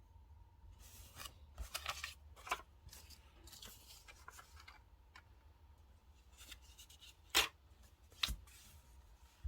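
Close-up paper-crafting sounds: a run of short crisp snips and rustles of paper and stickers, then two sharp taps about a second apart near the end.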